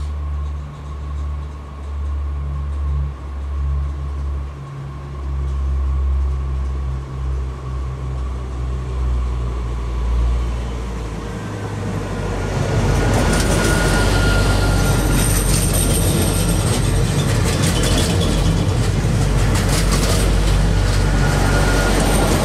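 A train running on the track: a low rumble that grows much louder about halfway through as it comes close. The loud part carries wheel-on-rail clatter and thin high-pitched tones like wheel squeal.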